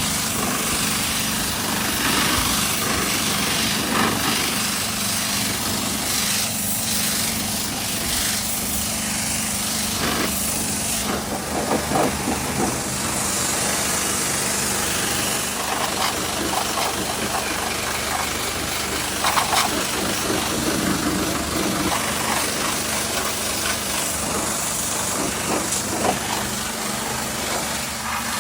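A motor running steadily with a constant hum, with hissing that swells and fades a couple of times and scattered light clicks.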